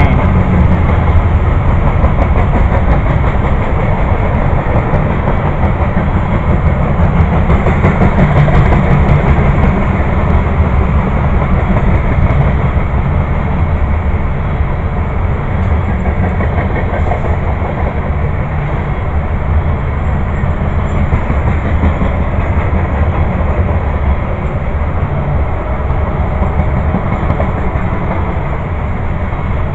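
Freight grain train of covered hopper cars rolling past, a steady rumble with wheel clatter on the rails, easing off slowly over the second half.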